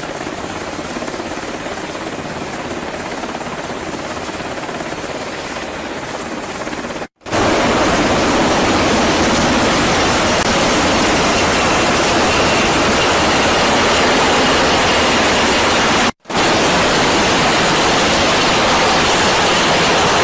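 Steady, loud rushing noise with no distinct shots or tones, cut to silence twice for a moment (about 7 and 16 seconds in), and louder after the first cut.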